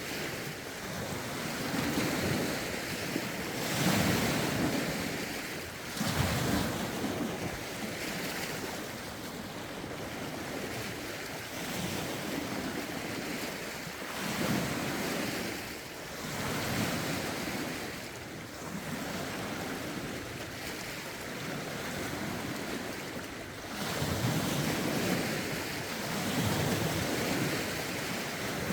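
Lake waves lapping and breaking on the shore in a rough wind, swelling and ebbing every couple of seconds, with wind buffeting the phone's microphones.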